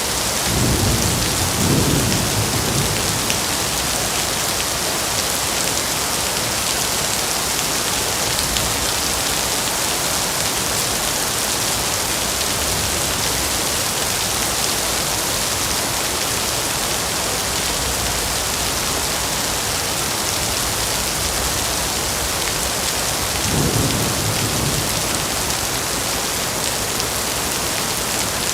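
Steady rain pouring down, with two short low rumbles of thunder: one about a second in and another some twenty seconds later.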